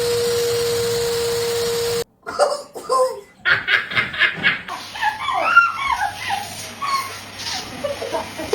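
Vacuum cleaner running with a steady whine, cut off abruptly about two seconds in, followed by people laughing.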